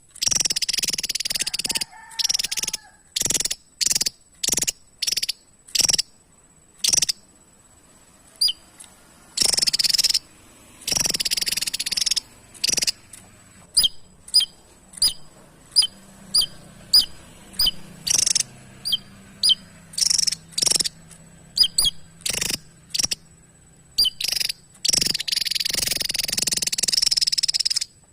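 Javan tesia singing: a long series of short, sharp high notes, with a run of quick descending whistles through the middle and longer buzzy, jumbled phrases near the end.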